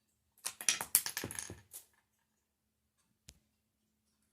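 A quick clatter of small hard objects rattling together for about a second and a half, followed near the end by a single sharp click.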